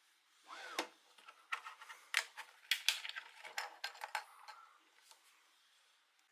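A short squeak, then a quick run of light, sharp clicks and taps from small hard objects being handled, fading out after about four and a half seconds.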